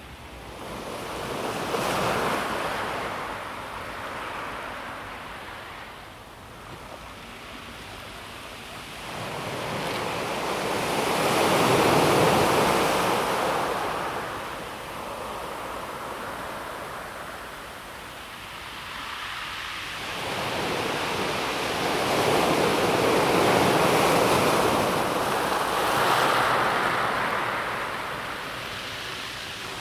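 Calm sea waves washing onto a pebble beach. The wash swells and fades in three slow surges, about ten seconds apart.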